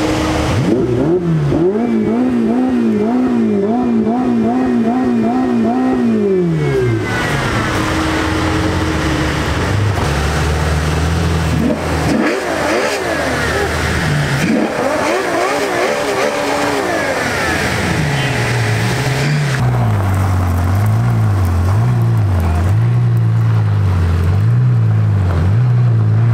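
Ferrari supercar engines running and being revved, the engine note rising and falling in regular surges. About seven seconds in, the higher note falls away. From about eighteen seconds, a deeper engine note surges up and down roughly once a second as the red Ferrari 812 Superfast moves off.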